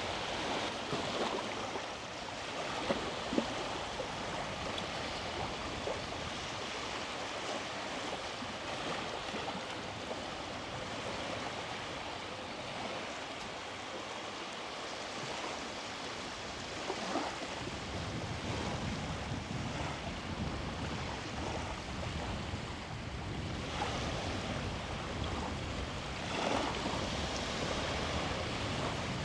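Sea waves washing onto the shore, a steady rushing hiss. A little past halfway a low rumble joins in underneath.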